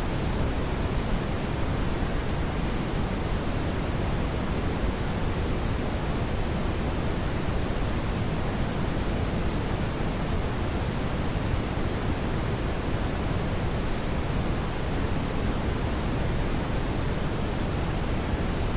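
Steady brown noise: an even rushing hiss, heaviest in the low end and thinning toward the top, with no change.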